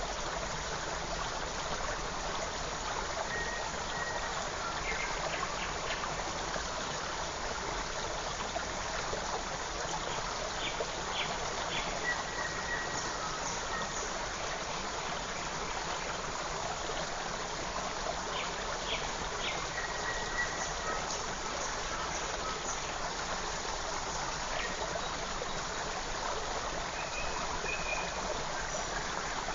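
Forest creek running steadily over stones, with faint short bird chirps and whistles now and then.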